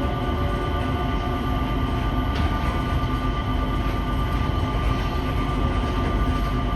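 Changi Airport Skytrain, a rubber-tyred automated people mover, running steadily: a continuous rumble with a few faint, steady whining tones.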